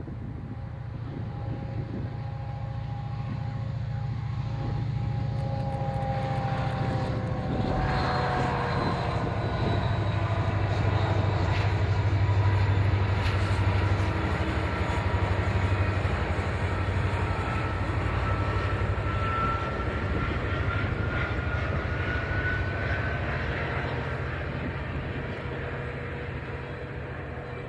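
Train passing: a heavy low rumble that builds to a peak about halfway through and then fades away, with whining tones that slide down in the first third and another that climbs slowly in the second half.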